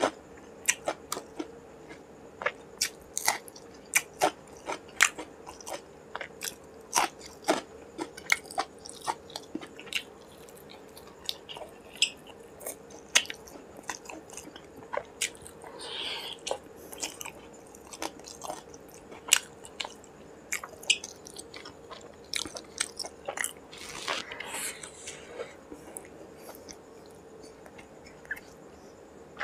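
Close-miked mouth sounds of a man eating rice, curry and fried fish by hand: chewing, lip smacks and frequent sharp wet clicks, with two short hissing sounds, one near the middle and one later.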